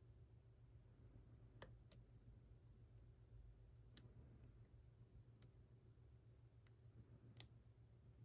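Faint metallic clicks of a lock pick working the inner pins of a Mul-T-Lock Classic serrated dimple lock core, about half a dozen scattered over several seconds, over a low steady hum.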